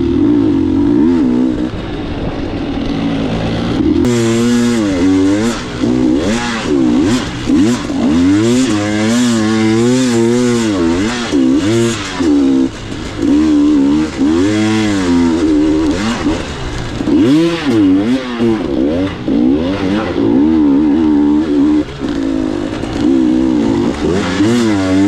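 KTM 300 two-stroke dirt-bike engine revving up and falling back again and again as the throttle is worked along the trail, with scattered knocks and clatter from about four seconds in.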